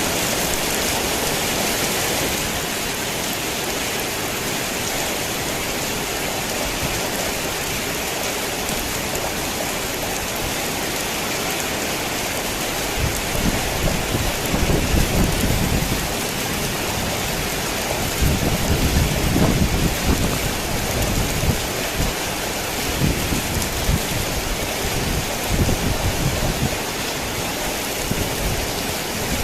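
Heavy rain falling steadily on a tin roof. From about halfway through, low thunder rumbles in several rolling waves.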